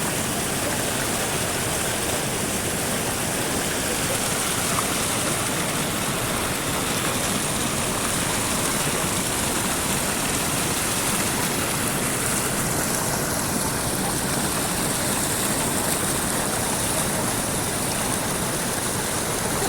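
Waterfall: a steady, unbroken rush of falling water with a strong hiss.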